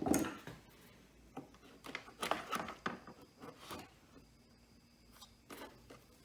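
Irregular short clicks and scrapes of small parts being handled: a washer being fitted onto a vacuum cleaner wheel's axle.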